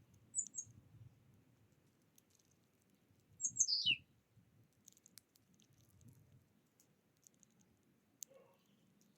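Small wild songbirds calling: a couple of short, high chirps, then a louder call that sweeps quickly down in pitch about three and a half seconds in, with a few faint clicks in between.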